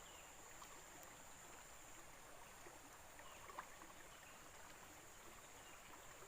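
Near silence: faint steady background hiss with a thin high steady tone, and a couple of faint clicks about three and a half seconds in.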